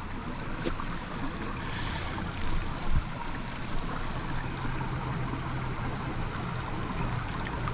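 Small mountain stream running: a steady rushing of water, with a brief thump about three seconds in.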